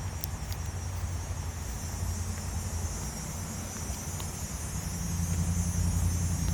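Outdoor ambience: a steady low rumble that swells after about five seconds, under a continuous high-pitched hiss of insects.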